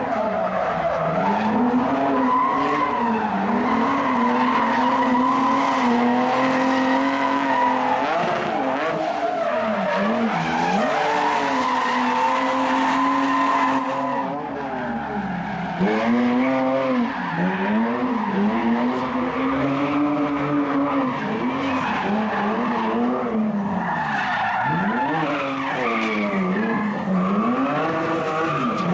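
Drift car engines revving hard, the pitch climbing and dropping every second or two as the throttle is worked, over a steady hiss of tyres spinning and skidding.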